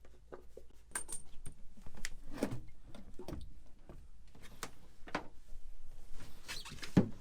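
Scattered light clicks, clinks and knocks of tools and metal parts being handled, a few each second, with one louder knock near the end.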